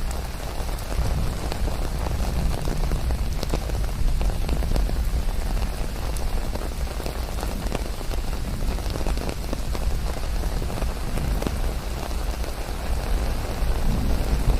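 Steady rain falling, with many separate drops ticking on a surface over an even hiss. A low rumble starts to swell right at the end.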